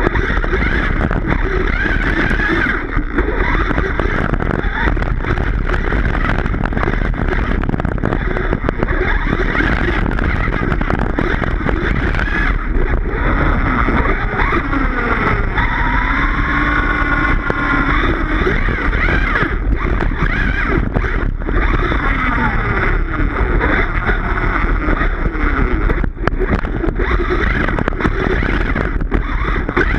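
Redcat Rampage XBE 1/5-scale electric RC truck running continuously, its electric motor's whine rising and falling in pitch as the throttle changes, with a steady low rumble underneath.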